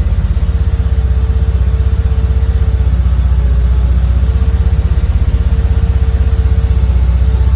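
Car engine with CIS continuous fuel injection idling about fifteen seconds after a cold start, without touching the gas pedal, with a fast, even pulsing beat and a faint steady whine. The owner is testing the engine from cold to show the problems he is having with its CIS.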